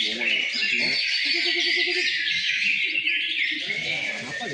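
Many caged green leafbirds (cucak ijo) singing at once: a dense, continuous tangle of high twittering chirps and trills from several birds, with weaker wavering lower sounds beneath.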